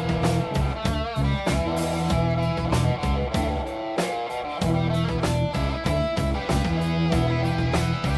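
Live rock band playing an instrumental passage: guitar lines with some bent, wavering notes over bass and a steady drum beat.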